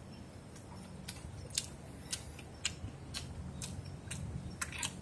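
Person chewing a mouthful of rice with the mouth closed: a steady series of faint wet clicks, about two a second.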